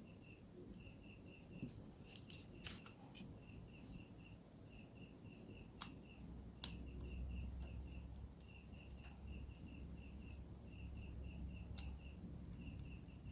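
A cricket chirping steadily in trains of short, high, evenly spaced pulses, with a few sharp clicks and taps.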